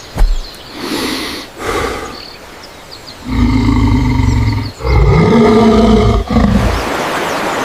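Brown bear roaring, a sound effect: a few thumps, then two long roars beginning about three seconds in, followed by a short third roar and a hiss.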